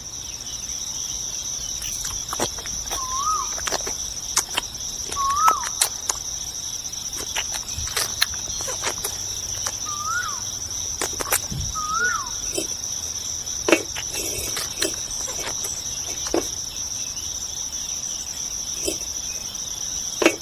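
Steady high insect trilling, with four short rising-and-falling bird whistles and scattered sharp clicks and taps.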